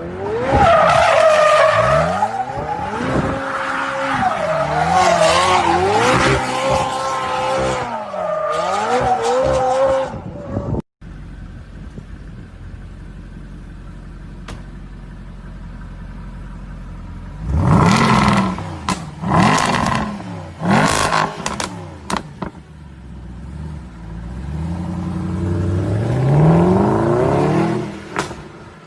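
Sports car engines revving hard, their pitch sweeping up and down through gear changes. After a cut the engine sits quietly, then is blipped sharply several times before a long rising acceleration near the end.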